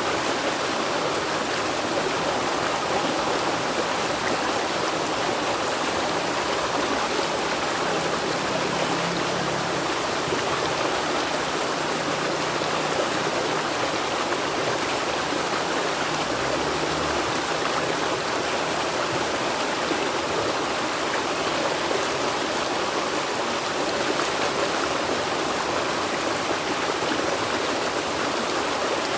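River water flowing steadily, an even rushing sound with no breaks or changes.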